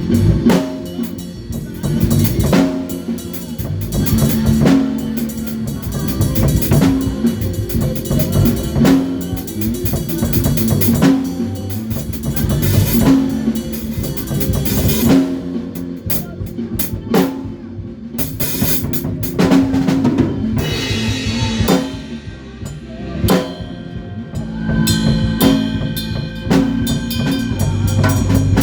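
A band rehearsing: a drum kit with kick and snare keeps a steady beat under low bass guitar lines. The drums thin out briefly around the middle.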